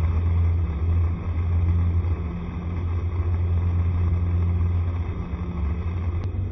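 Honda SCR110 scooter being ridden, its small single-cylinder engine running steadily under a strong, steady low rumble of travel noise.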